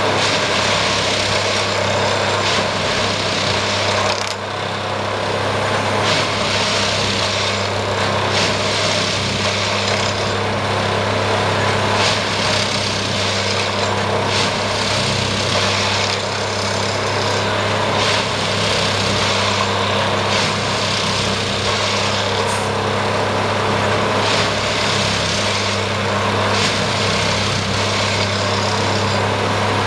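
Plasser & Theurer Duomatic 08-32 ballast tamping machine working. Its engine hums steadily under a continuous clatter from the vibrating tamping tools, which swells and eases every two to three seconds through the tamping cycles.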